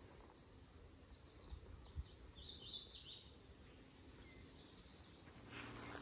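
Faint woodland birdsong: scattered short, high chirps, the busiest run about halfway through.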